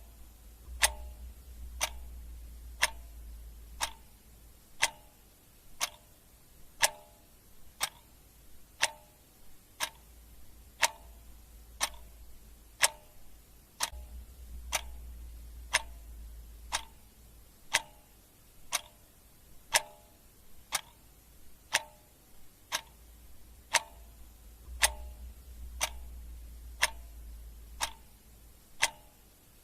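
Clock ticking steadily, a tick-tock of about two sharp clicks a second, every other one louder. A faint low rumble sits under it in stretches.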